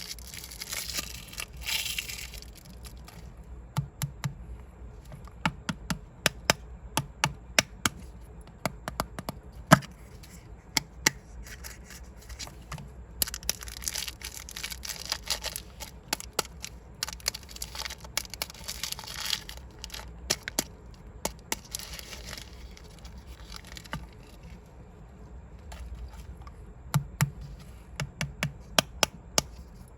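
Plastic capsules and balls being tapped and clicked, with many sharp clicks throughout. Stretches of wrapper crinkling and rustling come at the start, about halfway through, and a little after that.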